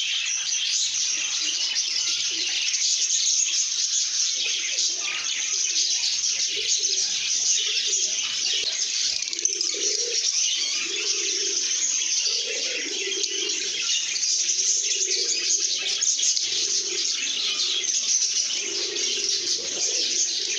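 A flock of lovebirds chattering and chirping in a continuous, dense, high twitter. A lower repeated call joins in from about halfway through, and the sound cuts off suddenly at the end.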